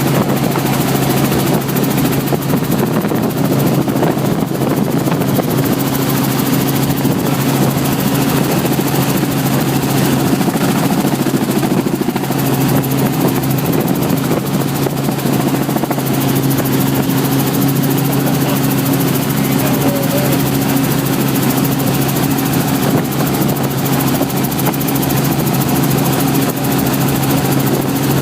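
Helicopter running in flight: a loud, steady noise of engine and rotor with a constant low hum that does not change throughout.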